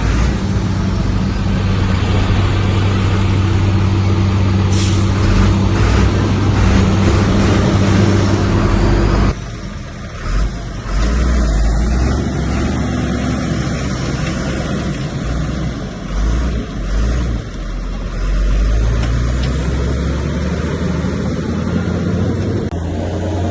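Heavy bulldozer diesel engine working under load, with a steady engine note. About nine seconds in the sound changes abruptly to a lower, uneven rumble that rises and falls as the machine works.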